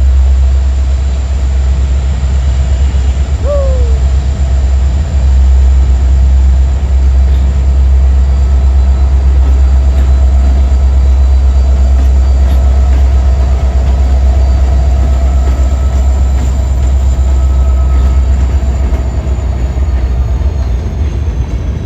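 A train passing close by: a loud, steady low rumble with faint steady higher tones over it and a brief falling squeal about three and a half seconds in. The sound drops off suddenly at the very end.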